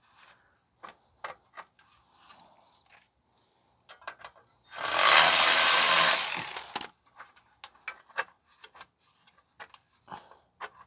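A cordless power tool runs in one burst of about two seconds, a little past the middle, turning the nut of an exhaust band clamp on a heat shield. Light clicks and taps of metal being handled come before and after it.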